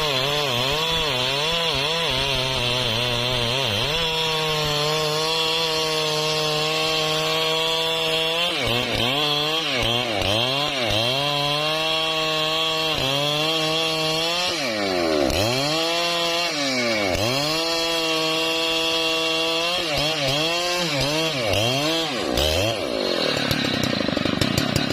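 Husqvarna 3120 XP two-stroke chainsaw running at high revs while cutting wood, its engine pitch repeatedly dipping and climbing back. Near the end the revs fall away.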